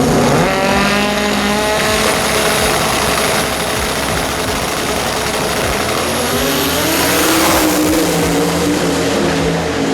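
Drag racing car's engine at full power accelerating hard down the strip, its pitch climbing steeply in the first couple of seconds and rising again later on.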